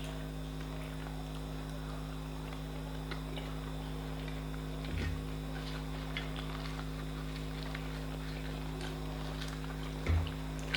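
Close-miked eating sounds: small chewing and mouth clicks over a steady electrical hum, with two dull thumps about five seconds apart.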